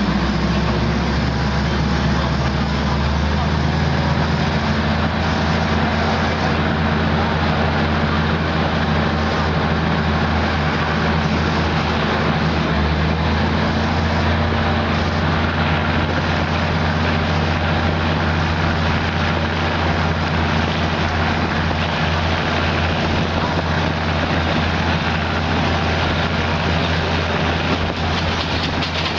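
Diesel commuter train heard from inside a carriage while running: a steady low engine drone under the continuous rush of wheels on the rails and passing air through the open window.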